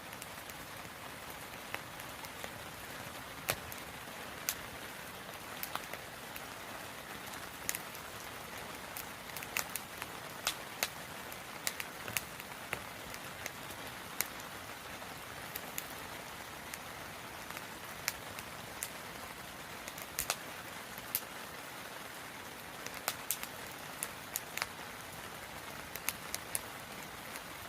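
Wood campfire crackling: a steady hiss with frequent irregular sharp pops and snaps.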